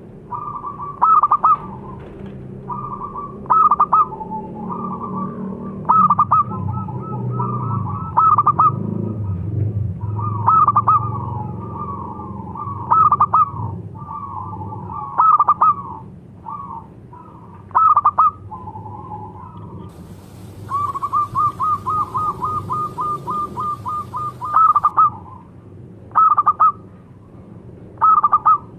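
Zebra doves cooing: rolling coo phrases repeat every couple of seconds, and about two-thirds through comes a fast, even run of short staccato coos, about three a second.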